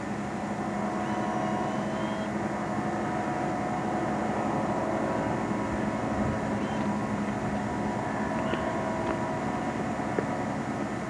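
A motor vehicle's engine running steadily, a constant drone with a fixed hum in it.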